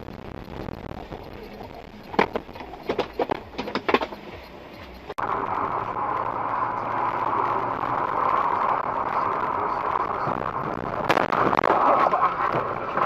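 Car dashcam audio: road noise with a quick series of sharp knocks about two to four seconds in. A cut about five seconds in brings a louder, steady drone, with another burst of clatter near the end.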